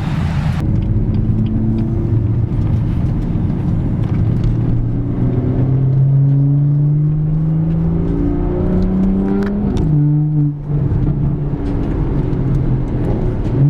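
Car engine running at low revs, its pitch rising slowly for several seconds, dipping briefly about ten seconds in, then steadying.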